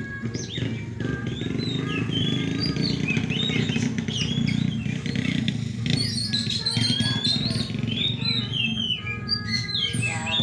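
Several oriental magpie-robins (kacer) singing in quick, varied whistled phrases and chirps. A steady low din of voices and background noise runs underneath.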